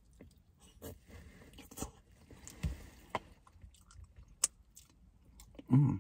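A person chewing food close to the microphone: soft wet chewing with scattered small clicks and smacks. A short vocal sound comes near the end.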